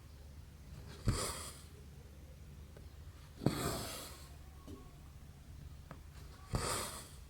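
Needle and embroidery thread being pulled through cross stitch canvas three times, each a sharp poke followed by a short swish of thread drawn through the fabric, about three seconds apart.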